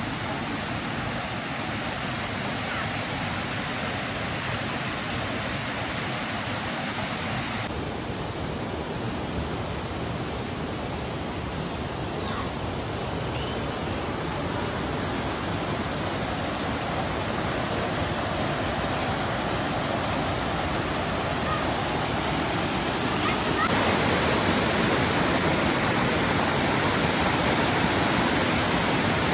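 Rushing water of a waterfall or mountain stream, a steady roar of falling water that grows louder in steps about eight seconds in and again about twenty-four seconds in.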